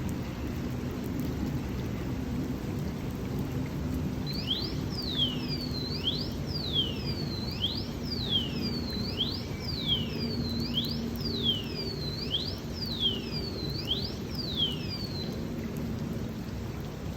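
Steady rain with a low rumble under it. About four seconds in, a bird starts a repeated call of high falling whistles with short chirps between them, a little over one a second. The calls stop a couple of seconds before the end.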